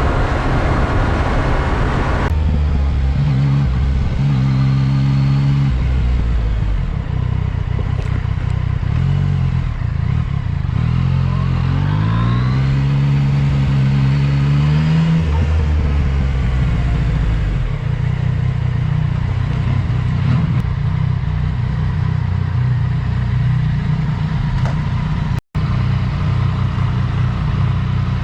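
Yamaha MT-09 SP inline-three motorcycle engine running under way, heard through a helmet- or bike-mounted GoPro's built-in microphone. Its pitch rises twice as the bike accelerates through the gears, over steady wind and road rush.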